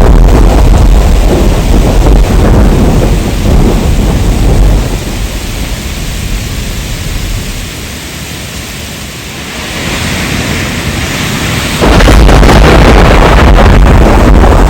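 Heavy rain with a loud rolling thunder rumble that dies away about five seconds in, leaving steady rain hiss. A loud rumble cuts back in suddenly near the end.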